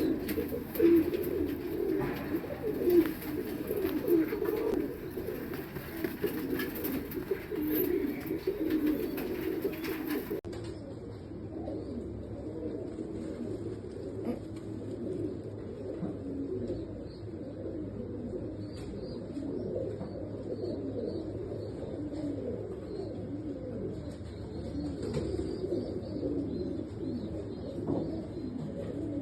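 Fancy pigeons cooing continuously, many birds overlapping in a low warbling chorus. About ten seconds in the sound turns duller.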